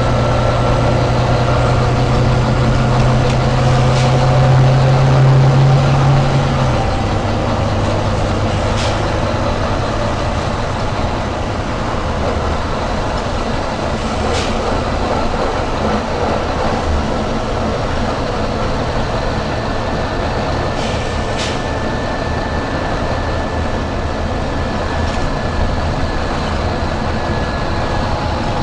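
Volvo B9TL bus engine running with a steady low drone whose pitch drops about seven seconds in, some rising whine early on, and a few faint sharp clicks every several seconds.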